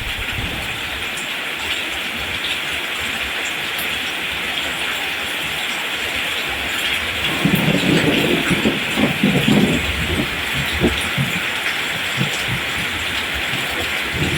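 Steady rain falling, an even hiss, with a low rumble swelling up about halfway through and fading over a few seconds.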